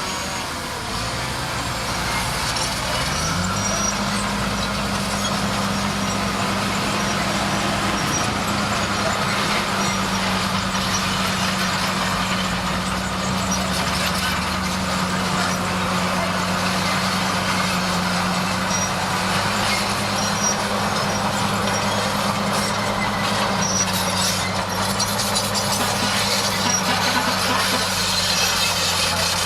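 A bulldozer's diesel engine rises in pitch about three seconds in, then holds steady at high revs, as when working under load.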